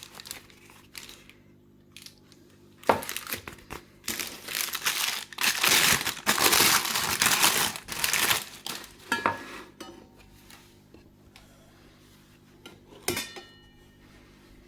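Packaging crinkling and rustling as it is handled, loudest in the middle, with a few sharp knocks of a metal pan, the last one ringing briefly.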